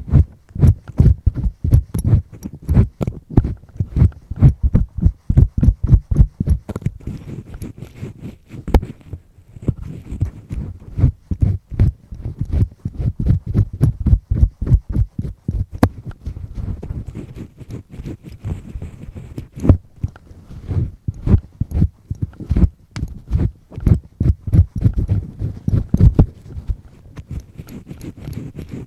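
Double-disc earpick scraping firmly inside an ear, close to the microphone: rapid rubbing strokes with deep, muffled thuds, several a second, easing off briefly twice.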